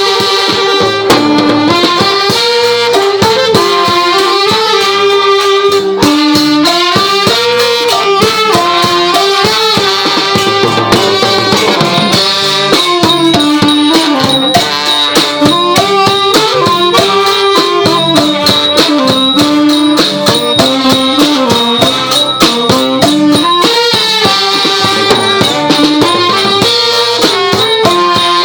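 Thai brass band (trae wong) playing traditional funeral music: a reedy wind melody moving up and down over steady drums and small cymbals, without a break.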